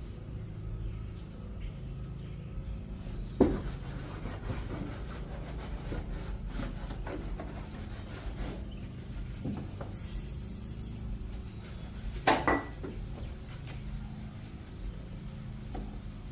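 A rag rubbing and wiping over the car's surfaces, with handling noises, two sharp knocks and a short hiss about ten seconds in.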